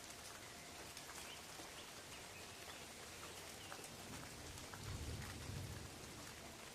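Steady rain falling on forest leaves, with scattered drips and a few faint chirps. A low rumble swells for about a second and a half near the end.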